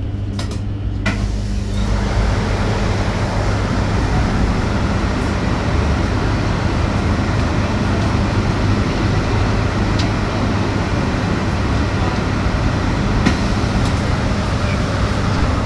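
Inside an electric bus: a steady low hum, then a couple of clicks, then from about two seconds in an even rush of road and tyre noise as the bus drives along.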